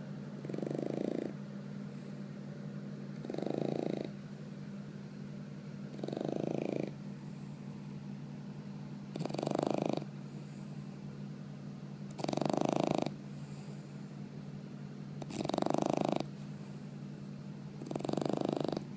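Bulldog puppy snoring in its sleep: seven snores at an even pace of about one every three seconds, each lasting just under a second, growing slightly louder toward the end.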